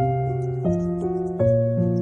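Slow, gentle piano music, a new note struck about every three quarters of a second and left to ring. Faint, short bird chirps sound high above the piano.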